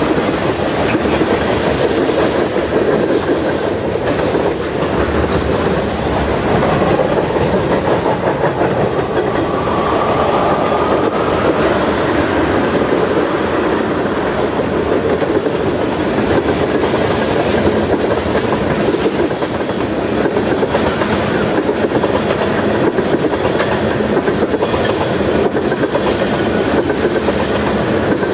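Freight train cars rolling past, a steady loud clatter of wheels over the rail joints, with a faint brief squeal about ten seconds in.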